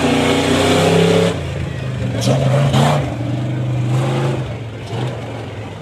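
Tough truck's engine revving hard on a dirt obstacle course. It drops off about a second and a half in, revs up again briefly, then fades away.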